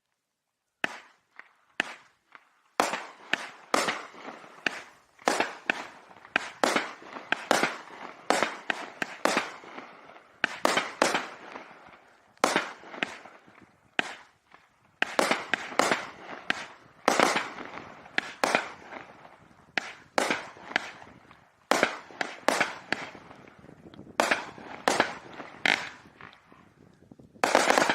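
A 200-gram consumer firework cake, Raccoon Fireworks' Dreams From Heaven, fires its shots in quick succession from about a second in. There is a sharp report every half second to second, and each one trails off in the crackle of strobing stars. A denser, louder burst comes right at the end as the finale starts.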